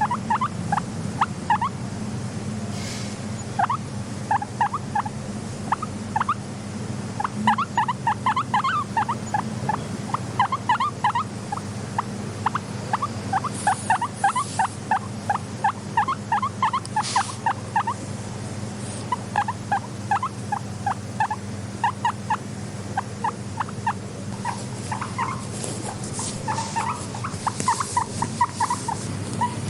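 Guinea pig giving rapid short squeaks in runs of several a second, with pauses between runs, over a steady low hum.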